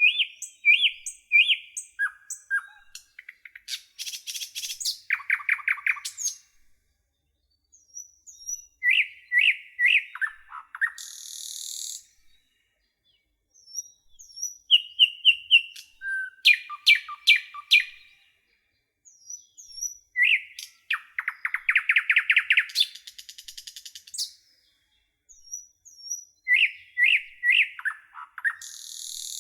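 A songbird singing in phrases several seconds long, separated by short pauses. Each phrase mixes clear whistled notes, fast trills and a buzzy rattle, and starts again about every six seconds.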